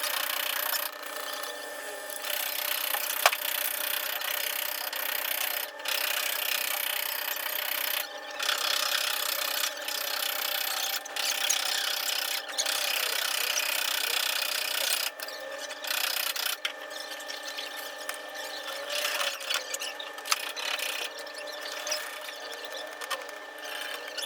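Abrasive rubbing on a car's body panel during dent repair: a steady scraping hiss in stretches of a few seconds, broken by short pauses.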